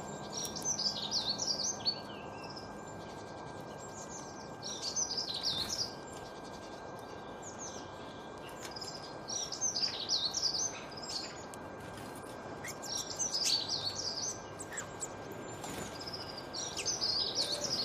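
A songbird singing a short, rapid, high-pitched twittering phrase about every four seconds, five times, over a steady background hiss.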